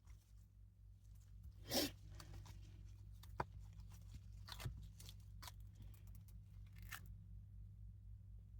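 Silicone mold being flexed and peeled off cured epoxy resin pieces: a faint tearing peel about two seconds in, then a few small clicks and crackles as the pieces come free.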